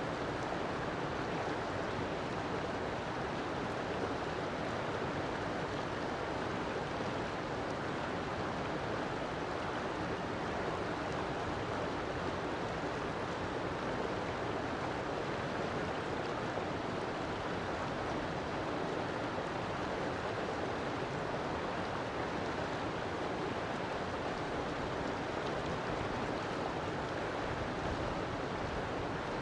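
River water flowing steadily over rocks, an even rushing with no changes.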